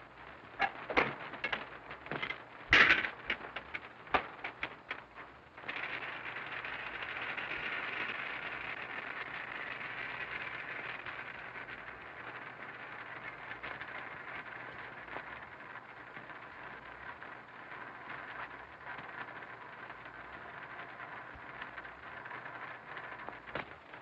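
A few sharp knocks, then a steady hiss that starts suddenly about six seconds in: gas escaping from a kitchen gas oven that has been turned on but not yet lit.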